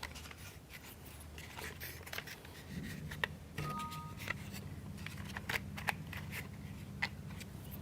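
Faint scattered clicks and light handling sounds of plywood model parts being shifted and fitted by hand, over a low steady hum that comes in about three seconds in.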